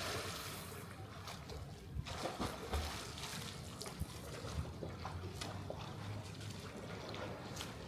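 Swimming pool water splashing and trickling, with many small splashes scattered through a steady wash of water noise.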